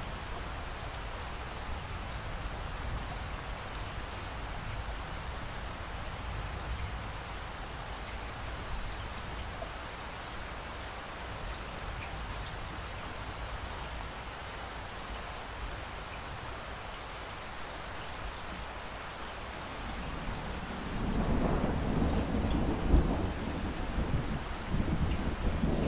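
Steady rain falling, then about twenty seconds in a low rolling rumble of thunder builds and carries on to the end, peaking sharply once.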